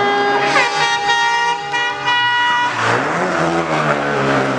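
Rally car engine at high revs going past, its pitch dropping and then holding steady, with a rush of noise about three seconds in.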